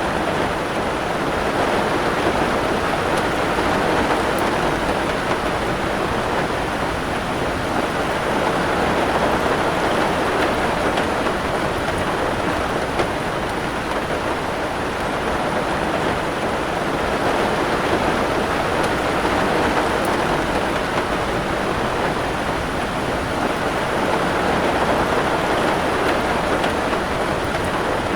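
Steady heavy rain, an even hiss that swells and eases slowly, with a few faint ticks of drops.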